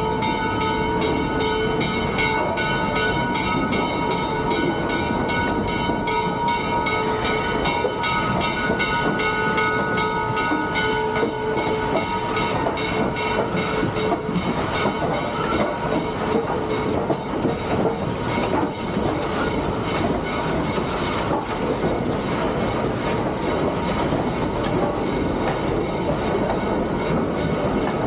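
A steam train on the Western Maryland Scenic Railroad running along the track with a steady, rhythmic clatter of wheels. A held, multi-note tone sounds over it during the first third and fades out about eleven to fourteen seconds in.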